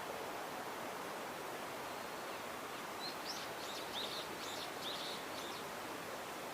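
Brown-eared bulbul giving a quick series of short, high call notes about halfway through, over steady outdoor background noise.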